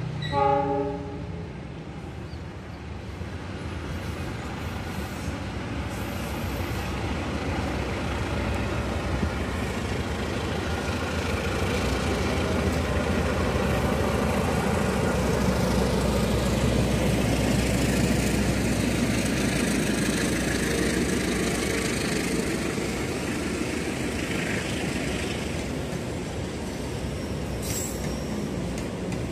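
A diesel locomotive hauling a passenger train passes: a short horn blast in the first second, then engine rumble and wheel noise that build over about fifteen seconds and stay steady as the coaches roll by.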